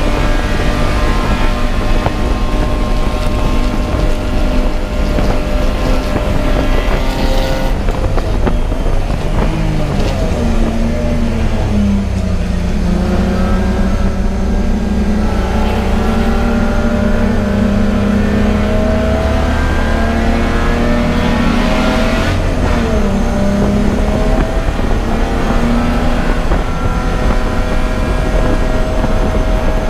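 Race car engine running hard. Its pitch falls for a few seconds about a third of the way in, climbs steadily for about ten seconds, dips briefly, then climbs again, as the car slows for a corner and accelerates back up through the gears.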